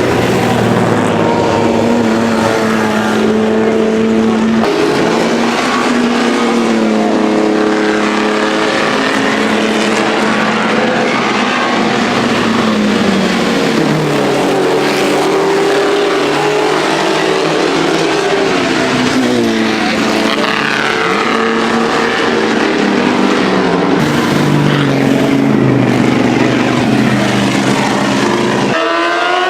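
Engines of several vintage Grand Prix racing cars running hard and overlapping, their pitch rising and falling as they rev up, shift and pass by. Near the end the sound changes abruptly to another engine climbing in pitch.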